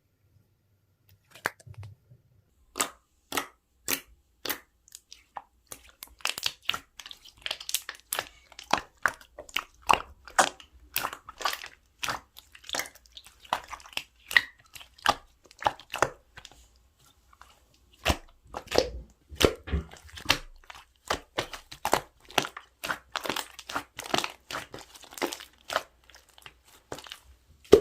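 Slime being pressed, stretched and folded by hand, giving a run of sharp pops and clicks from trapped air, about two to three a second and thicker in clusters.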